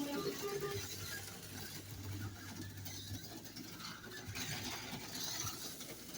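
HO-scale slot cars running laps during a race: small electric motors whirring around the track, with a steady low hum for a couple of seconds starting about a second in.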